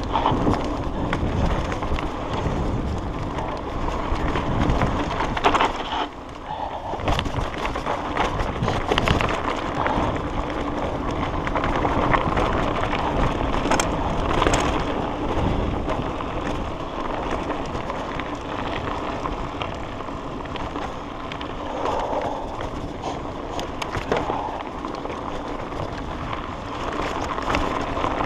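Mountain bike ridden along a dirt trail: tyres rolling over the ground with constant rattling and knocking of the bike over bumps.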